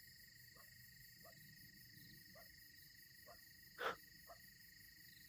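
Faint evening insect chorus of crickets and katydids: a steady high trill with fainter, higher buzzing above it. Soft short calls come about once a second, and a single brief, sharper sound cuts in a little before four seconds in.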